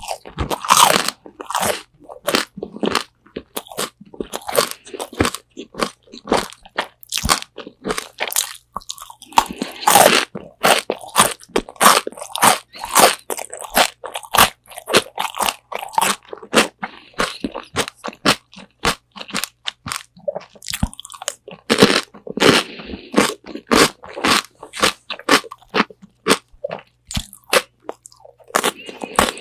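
Crispy Korean spicy fried chicken wings being bitten and chewed close to a binaural microphone: loud, sharp crunches of the fried crust in rapid clusters, with brief pauses between bites.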